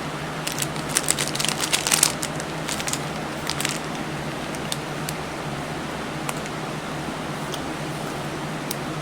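Chocolate-coated pretzels being chewed, with a run of short crisp crunches in the first two seconds and another brief burst a little later, then only scattered faint crackles over a steady low hum.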